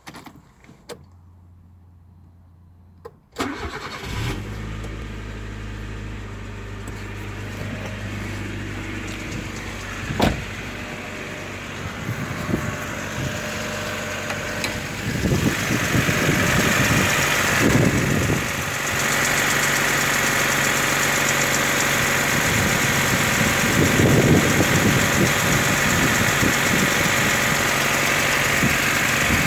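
Honda D14A4 1.4-litre four-cylinder engine started from cold, catching about three seconds in and then idling, with the knock this engine makes when cold. The cause of the knock is not known.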